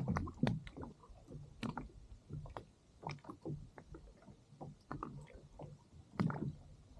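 Small waves slapping and gurgling irregularly against a drifting kayak's hull.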